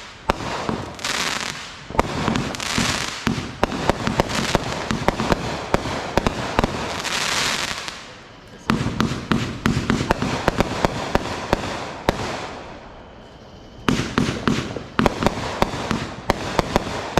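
Fireworks going off in quick succession: dense sharp pops and crackling over rushing hiss. The firing eases off briefly about eight seconds in and again around thirteen seconds, then picks up.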